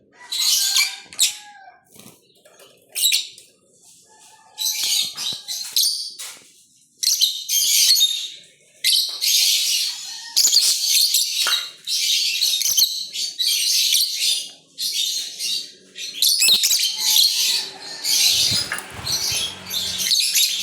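Small birds chirping and fluttering, with a rapid run of short, hissy bursts that come closer together as it goes on.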